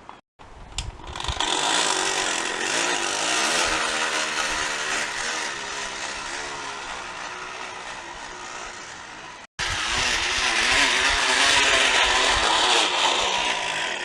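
A can rigged on a bicycle being struck by the spinning wheel's spokes, making a loud motor-like buzzing rattle meant to imitate a dirt bike. The buzz climbs in pitch as the wheel speeds up and cuts out for a moment about nine and a half seconds in.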